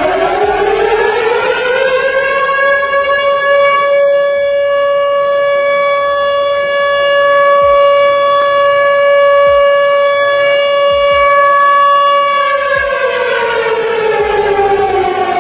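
Tornado warning siren winding up in pitch over the first two seconds or so, holding one steady tone for about ten seconds, then winding down near the end.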